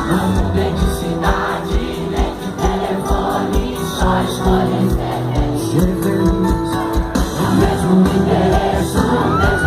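Live sertanejo band playing loudly with a steady drum beat, while a concert crowd sings and shouts along.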